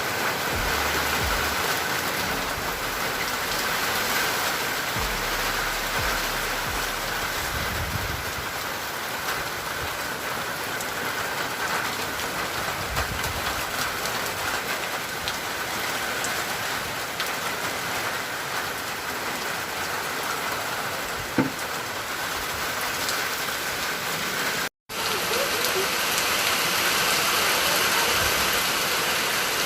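Steady rain falling, an even hiss of rain on surfaces. The sound cuts out for an instant about 25 seconds in, then the rain goes on.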